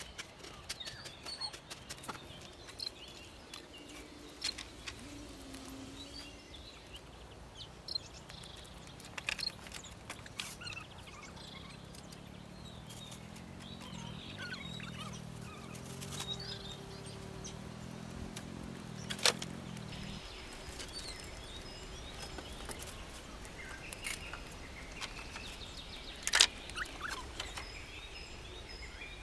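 Birds chirping, with scattered sharp knocks and clicks throughout, two of them louder, about nineteen and twenty-six seconds in. A low hum joins about twelve seconds in and cuts off suddenly about twenty seconds in.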